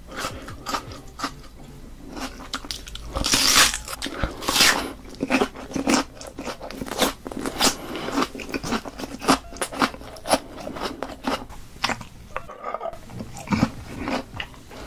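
Raw red onion being bitten and chewed close to the microphone: a run of crisp, wet crunches all through, with two louder, longer noisy bursts about three and a half and four and a half seconds in.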